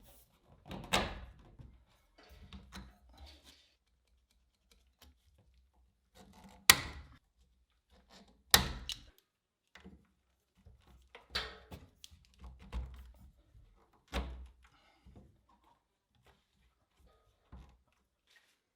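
Irregular knocks and clunks of plumbing work in a small room, as multilayer pipe, fittings and tools are handled, with two sharper knocks about seven and eight and a half seconds in.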